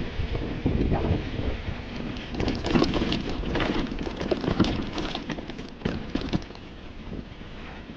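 Mountain bike rattling and clattering over rough trail, with irregular knocks through the middle of the clip, over a steady rumble of wind on the microphone.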